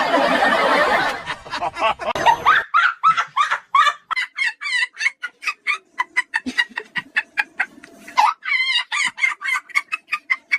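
A loud noisy burst for the first two and a half seconds, then a rapid run of short, high-pitched bird-like calls, several a second, wavering in pitch.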